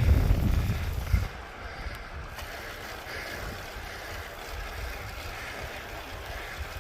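Wind buffeting the microphone on a moving bicycle: a heavy low rumble for about the first second, which drops away suddenly, then lighter, steady wind noise.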